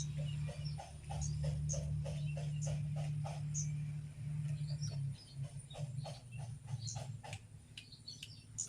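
Spotted dove (derkuku) cooing in runs of short, quickly repeated notes, with small birds chirping high and brief in the background.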